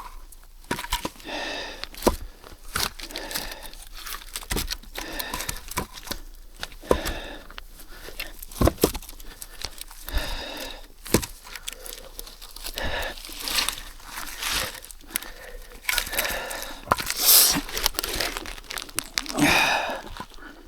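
Paper or cardboard being torn and crumpled by hand, as kindling for a wood-fired boiler, with scattered sharp knocks throughout.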